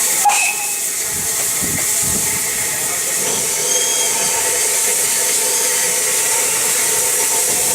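Steam locomotive giving off a steady hiss of steam, with a single sharp click about a third of a second in.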